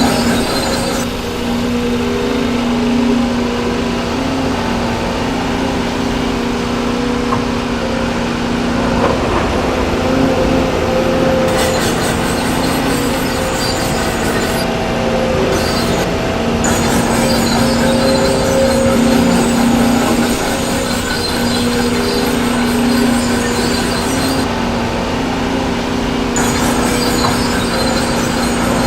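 Recorded sound of a full-size construction machine's engine, dubbed over the model, running without a break, its note swelling and easing every few seconds as if working under changing load.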